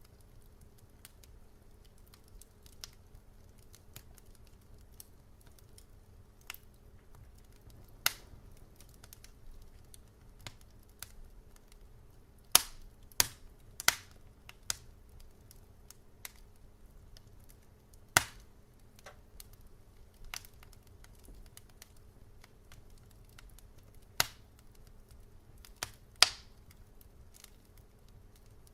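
Wood fire crackling: irregular sharp pops and snaps, a few louder ones standing out, over a faint steady low hum.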